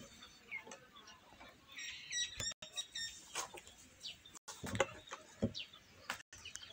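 Faint small-bird chirps and short whistled glides in the background, with a few soft clicks and knocks.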